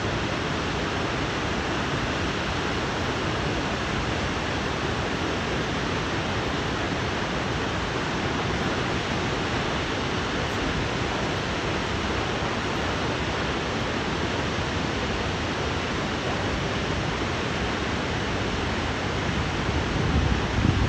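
Steady rushing of Shoshone Falls, a large waterfall on the Snake River, with a short low buffeting on the microphone near the end.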